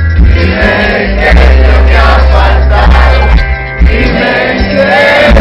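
Live rock band playing loudly, with heavy bass, drums and voices singing over it.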